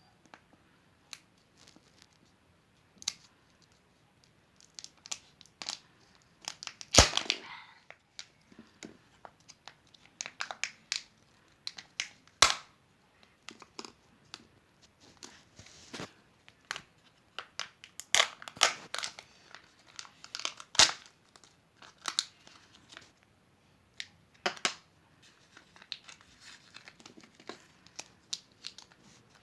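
Kinder Surprise eggs' foil wrappers crinkling and tearing as they are unwrapped by hand, in irregular crackles with occasional sharp snaps, the loudest about seven seconds in.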